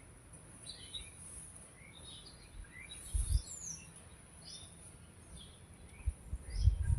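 Birds chirping in short, scattered notes over a steady high-pitched drone, with low bumps about three seconds in and again near the end.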